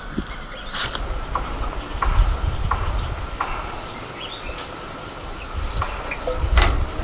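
A steady, high insect drone, with a low rumble that swells twice and scattered light clicks and knocks.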